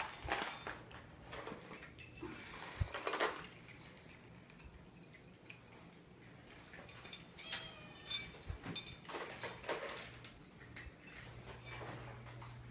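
Faint scattered clinks and knocks of small hard household objects, a few seconds apart, with a short high pitched sound about two thirds of the way in.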